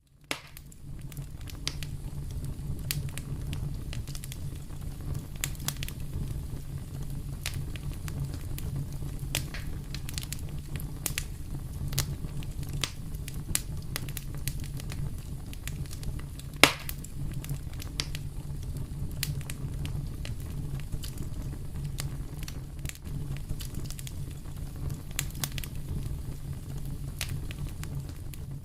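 Wood fire burning in a fireplace: a steady low rumble of flame with frequent sharp crackles and pops, one louder pop about two-thirds of the way through.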